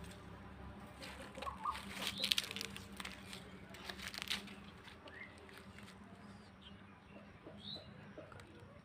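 Birds calling in short, scattered chirps, one rising, over a steady low hum, with a burst of rustling and clicking from about one and a half to four and a half seconds in.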